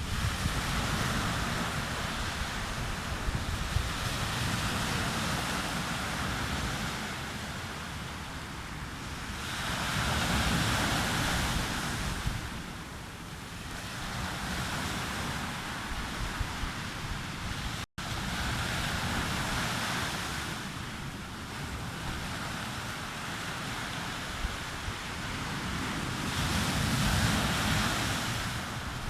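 Sea waves breaking on a beach: the surf swells and eases every several seconds, with wind rumbling on the microphone.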